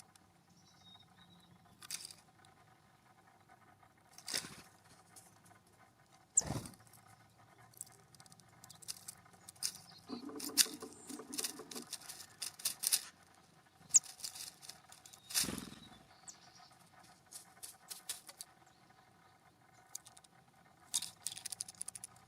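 Birds pecking and hopping at a ground feeder: scattered sharp clicks and taps, thickest around the middle, with a low buzzy sound for about two seconds about ten seconds in.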